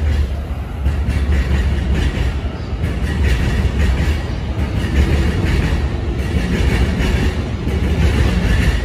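JR East E233-3000 series electric train pulling out of the station and gathering speed, a loud steady rumble of motors and wheels on the rails with scattered knocks as the wheels cross rail joints.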